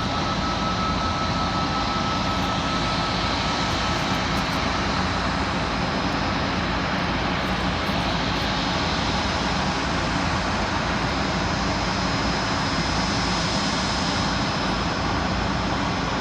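Boeing 737 MAX 8's CFM LEAP-1B jet engines running steadily, a wide even noise with a thin high whine.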